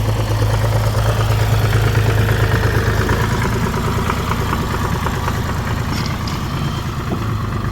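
Tractor engine running with a steady low hum as the tractor drives past, loudest about two seconds in and then easing off a little.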